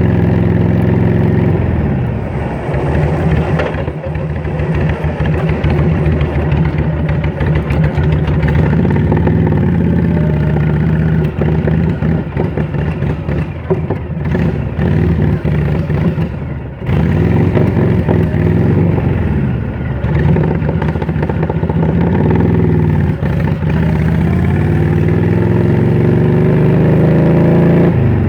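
A motor vehicle's engine running under way on a ride, its pitch rising and falling several times as it speeds up and eases off, with a brief dip in loudness about two-thirds of the way through.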